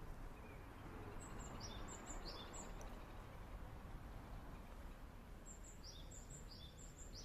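A small songbird calling in quick runs of short, high, downward-sliding chirps, one run about a second in and another in the second half, over a steady background hiss.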